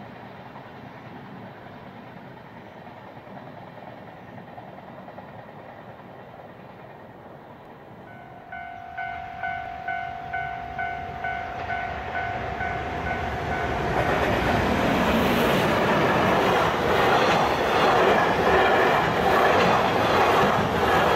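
Faint steady background noise, then a ringing tone that strikes about twice a second for some five seconds, then a high-speed freight train running past at speed, its wheels clattering over the rail joints.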